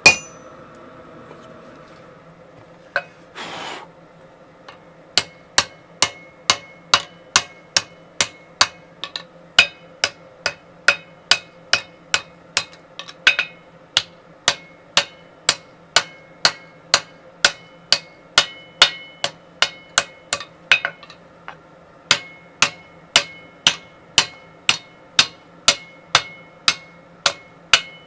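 Hammer forging 1060 tool steel on an anvil: a couple of single blows and a brief rushing noise, then a steady run of ringing strikes at about two a second, with one short pause about three quarters of the way through.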